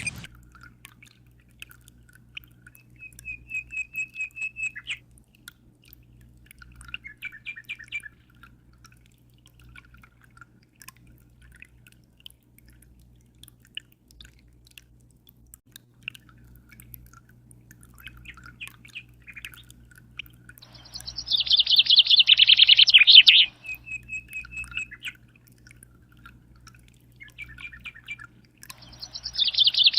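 Birds chirping, with short trills scattered through and a louder burst of fast, buzzy song about two-thirds of the way in and again near the end. A steady low hum runs underneath.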